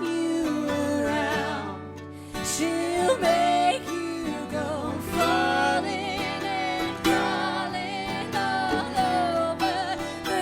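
Live Americana song: singing with vibrato over acoustic guitar and sustained instrument notes.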